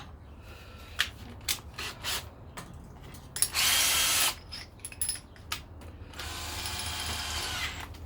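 Power drill run in two short bursts, one loud burst about three and a half seconds in and a longer, quieter run from about six seconds in, with small clicks and knocks of tools being handled between them.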